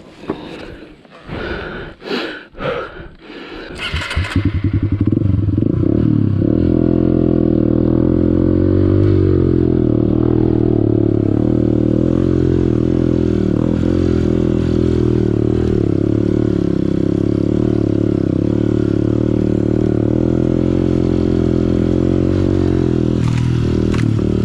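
Honda CRF150L single-cylinder four-stroke engine coming in about four seconds in and then running steadily at low revs. Before that come a few seconds of irregular clattering and scraping knocks.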